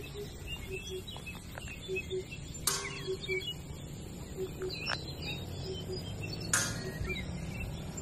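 Birds chirping and calling in short high notes, over a low two-note call that repeats steadily. Two short harsh rasps stand out, about three seconds in and again near six and a half seconds.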